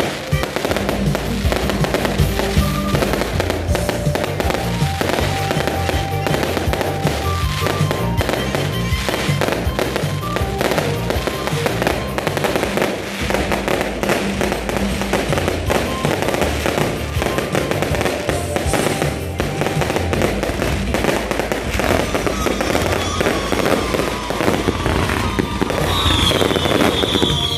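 Fireworks display: a dense, continuous barrage of bangs and crackles with music playing alongside. Near the end, a high whistling shriek from whistling fireworks rises over the bangs.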